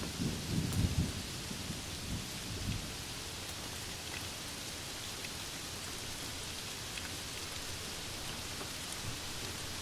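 Steady rain hiss with a roll of thunder rumbling low through the first few seconds and dying away.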